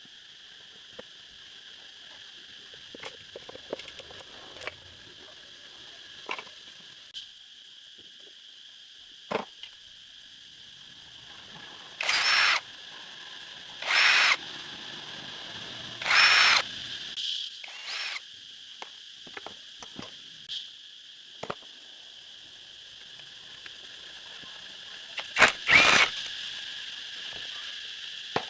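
Workshop handling sounds: scattered sharp clicks and knocks and several short noisy bursts, the loudest a pair near the end, over a steady high insect drone.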